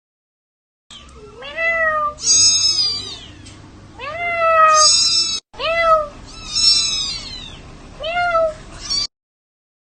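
Domestic cat meowing repeatedly, about half a dozen drawn-out meows that rise and then fall in pitch, some calls much higher-pitched than others. The calls start about a second in and stop abruptly near the end.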